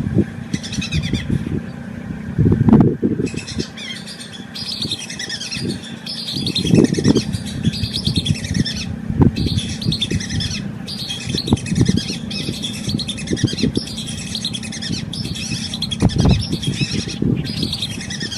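Swamp birds chirping: quick series of short, high, falling notes, almost without break, over irregular low rumbles and thuds.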